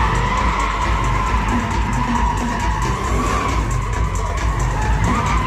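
Car tyres squealing in a long, continuous skid over the low rumble of the engine, with the squeal holding a steady pitch that wavers slightly.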